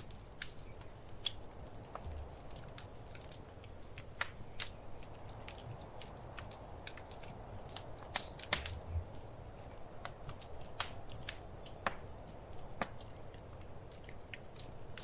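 Wood fire crackling: irregular sharp pops and snaps, a few stronger ones, over a soft steady hiss and low rumble of burning logs.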